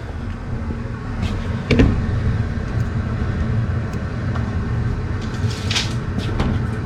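A steady low rumble with a few short knocks, the loudest about two seconds in and two more near the end.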